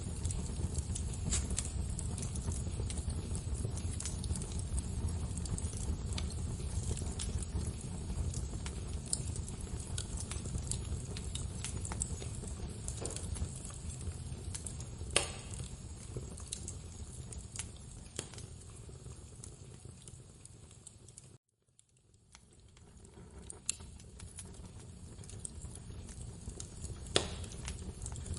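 Wood fire crackling in a fireplace: a steady low rumble with scattered sharp crackles and two louder pops. About three-quarters of the way through the sound cuts out for a moment and then fades back in.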